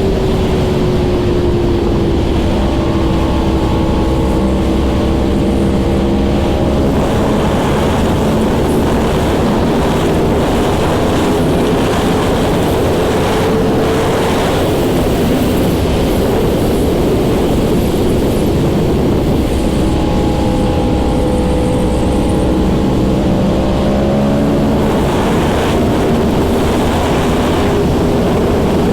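Yamaha R1 sport bike's inline-four engine running while cruising, its tone slowly drifting down and back up, under loud wind rush on the microphone.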